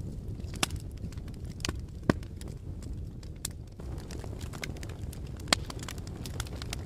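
Fire crackling, with scattered sharp pops over a low steady rumble; three louder pops stand out, near the start, about two seconds in, and past the middle.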